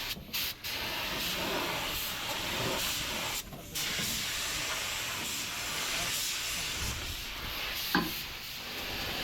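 Steady hiss of compressed air from a workshop air tool. It cuts out briefly twice, and there is one sharp click near the end.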